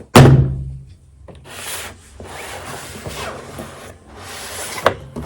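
A loud thump, then repeated rubbing and scraping as the toy's packaging is handled and slid about, with a short knock near the end.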